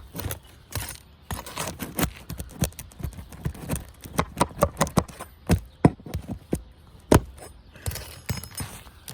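A metal roofing nail-pulling tool (roof snake) tapping and prying under architectural asphalt shingles to pull nails. It makes a run of irregular sharp clicks and knocks with some scraping.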